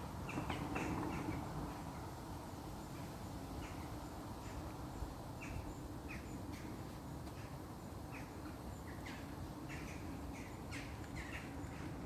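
Birds calling overhead: short calls repeated at irregular intervals over a steady low background noise.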